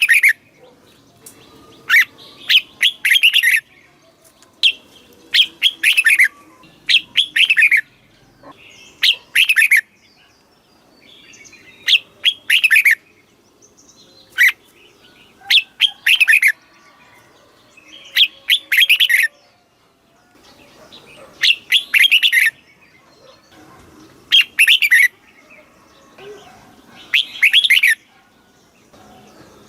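Red-whiskered bulbul singing: short, loud phrases of a few quick, sweeping notes, repeated every two to three seconds.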